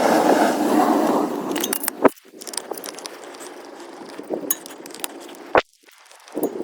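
A scraping, rustling noise for about two seconds, then light clinks of small hard objects, with two sharp knocks, one about two seconds in and one near the end.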